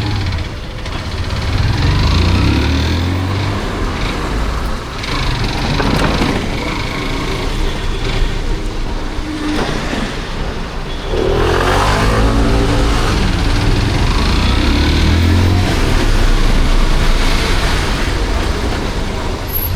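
Motorcycle engine under way, its pitch rising as it accelerates, strongly about a second in and again just past halfway, over a steady rushing noise of riding.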